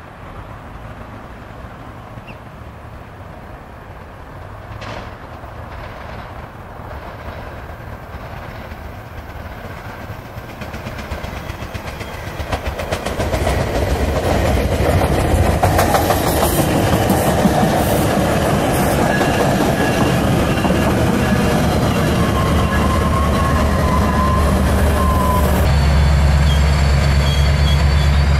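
Metrolink bi-level commuter train approaching and passing close by: the rail and wheel noise swells from about halfway in to a steady loud rush with clickety-clack over the rail joints. Near the end the sound changes suddenly to a deep, steady diesel locomotive rumble close at hand.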